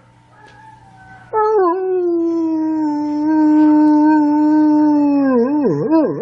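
A dog howling: one long held note, falling slightly in pitch, then breaking into quick wavering up-and-down howls near the end.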